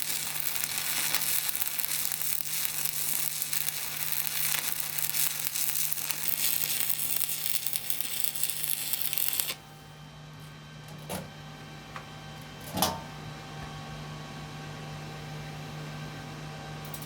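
Welding arc from a REM POWER WMEm 250 Lynx inverter welder crackling steadily, then cutting off suddenly about nine and a half seconds in. After that the welder's steady hum goes on, with two short knocks, the second the loudest.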